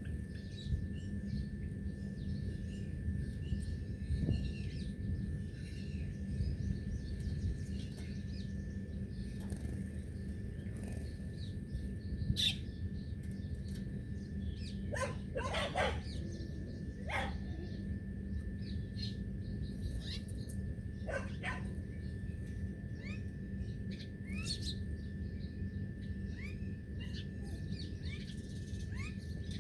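Birds chirping with many short, scattered calls over a steady low rumble and a thin steady tone. A few louder, sharper calls stand out about halfway through and again a few seconds later.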